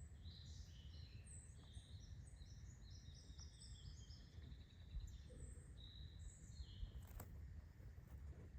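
A small bird singing a fast twittering song of short high notes, which fades about seven seconds in, over a steady low background rumble. A single sharp click sounds about seven seconds in.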